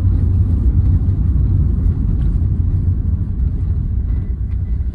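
Steady low rumble heard from inside the cabin of a 2008 Hyundai Verna 1.6 turbo diesel on the move: engine drone mixed with road noise.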